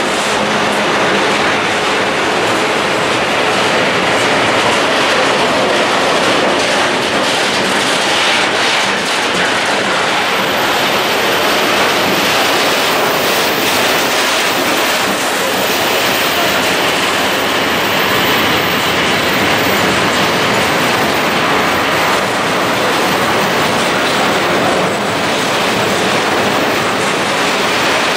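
Open-top coal wagons of a long freight train rolling steadily past, with the wheels clattering over the rails in a continuous, loud rumbling clatter.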